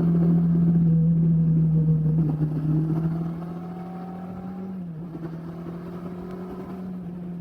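Motorcycle engine running at a steady speed. It drops in loudness about three seconds in, and its pitch dips briefly near the middle.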